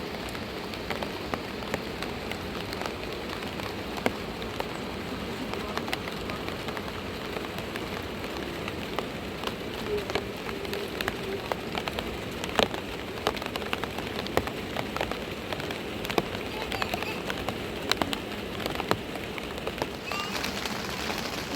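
Steady rain falling, with many separate drops tapping sharply.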